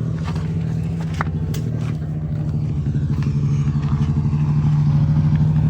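Motorcycle engine running at low revs, getting steadily louder over the second half.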